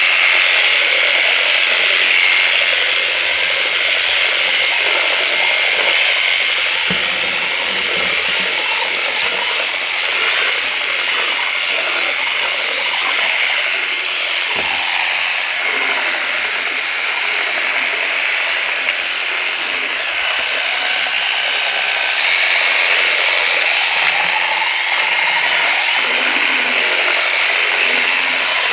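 Worx WG633 Hydroshot cordless pressure washer running continuously: its motor gives a steady high whine over the hiss of the water spray.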